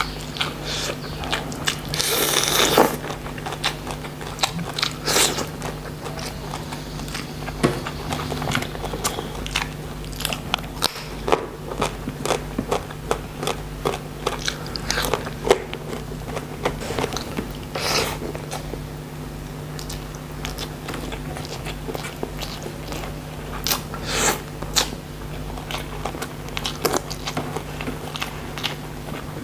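A person biting and chewing crunchy food close to the microphone, with crisp crunches at irregular intervals and a longer crunch about two seconds in, over a steady low hum.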